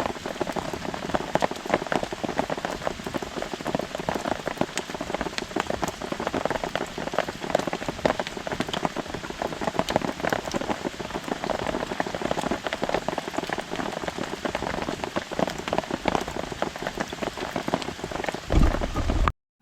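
Steady rain pattering on a camping tarp overhead, a dense run of close-spaced drop ticks. A brief low rumble comes just before it cuts off suddenly near the end.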